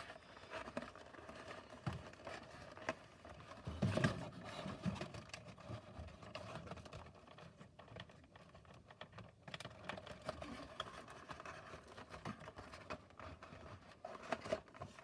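Cardboard playset pieces being handled and pressed together by hand: faint rustling with small scattered clicks and knocks, and one louder knock about four seconds in.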